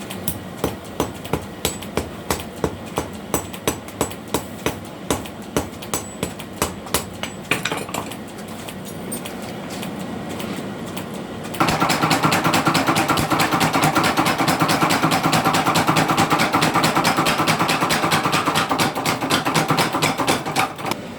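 Blacksmith's hammer striking steel on an anvil in an even rhythm of about three ringing blows a second, forging a sickle blade. About halfway through, a louder forge machine starts up with a rapid, steady run of strokes.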